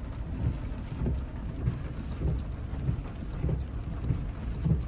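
A car driving on rain-soaked streets: a steady low rumble of engine and road noise, with soft thumps about once a second.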